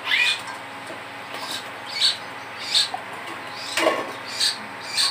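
Rose-ringed parakeet (tia pakhi) giving a run of short, sharp chirps and squawks, about six in a row, with one fuller call near the end.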